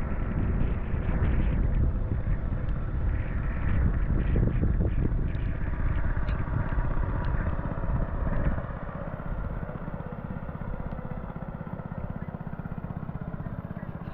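Boat's outboard motor running as the boat passes, louder for the first eight seconds or so, then dropping lower as it moves away.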